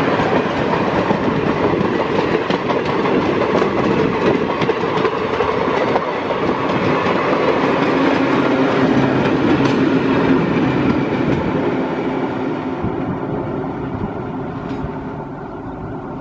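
Passenger train hauled by WAP-4 electric locomotives passing close by: a loud rumble with wheels clattering over the rail joints. It fades steadily from about three-quarters of the way in as the train moves away.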